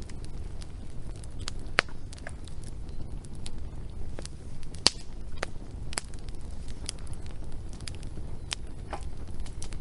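Wood fire crackling, with irregular sharp pops and snaps over a steady low rumble; the loudest pop comes about halfway through.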